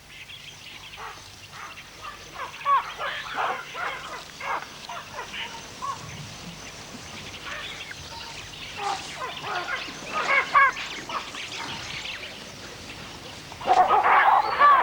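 Baboons squabbling: many short yelping and screeching calls, with a louder, denser burst of calls near the end.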